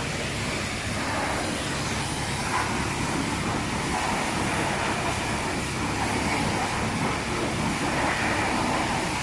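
Steady rushing hiss of water sprayed over the Pajero during its wash, heard from inside the car's cabin.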